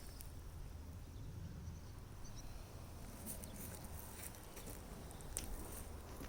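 Outdoor field ambience: a steady low rumble with a few scattered sharp clicks or rustles, the clearest about three seconds in and again past five seconds.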